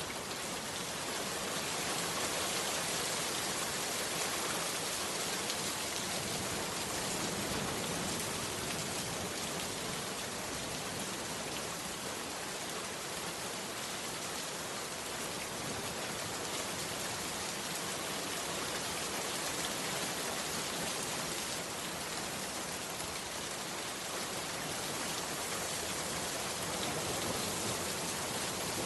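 Heavy rain falling steadily, a dense, even hiss of many drops with no let-up.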